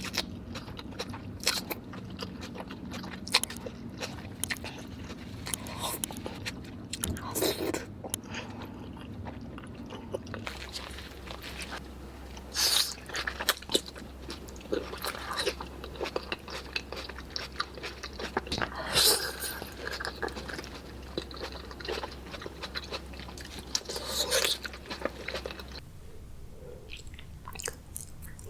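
Close-miked eating of spicy king crab: wet biting and chewing with crunches and sharp cracks of crab shell. The low background hum changes abruptly twice as the footage cuts between eaters.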